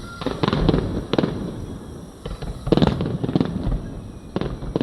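Fireworks display: aerial shells bursting in a run of sharp bangs, several coming in quick clusters, with a low rumble between them.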